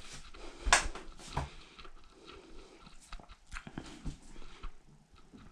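Irregular clicks and light knocks from hands working a Samsung washer's control panel to enter its diagnostic mode, with one sharp click, the loudest, under a second in.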